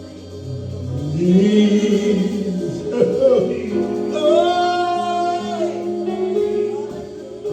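Gospel praise and worship singing over sustained instrumental chords. The voice swells upward about a second in and holds a long note from about four seconds in.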